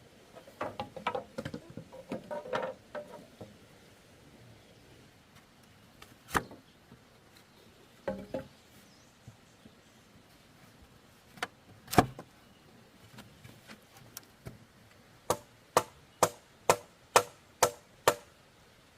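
Hand-tool strikes on bamboo while a bed is built: a quick flurry of light knocks, then a few single sharp blows, and near the end seven evenly spaced strikes, about two a second.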